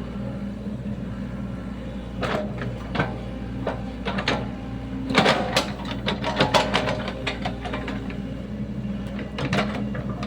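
Sany SY75 mini excavator's diesel engine running steadily as it digs, with scattered knocks and scrapes from the bucket and soil, heaviest about five to seven seconds in.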